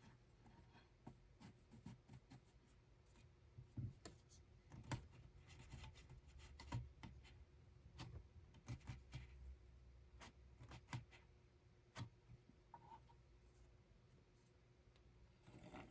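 Faint, irregular light clicks, taps and rubbing from hands working yarn, with a few sharper taps in the middle of the stretch.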